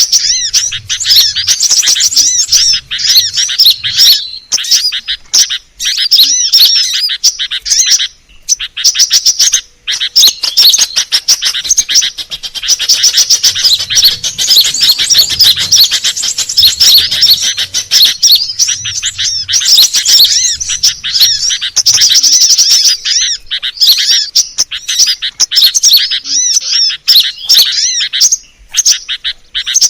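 Sunbird calls, the kolibri daun and crimson sunbird, played as a bird-catcher's lure call: rapid high chirping and twittering, nearly continuous, with a couple of brief pauses.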